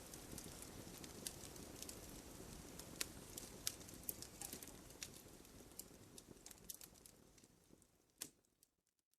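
Wood fire crackling, with frequent sharp pops over a low hiss. The sound fades away over the last few seconds, with one last pop shortly before it cuts to silence.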